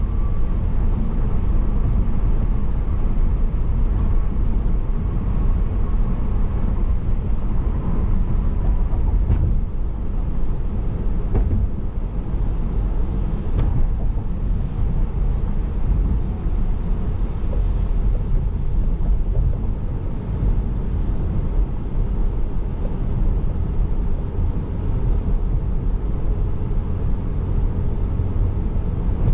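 Steady road and engine noise of a car driving, heard from inside the cabin, with a few faint clicks near the middle.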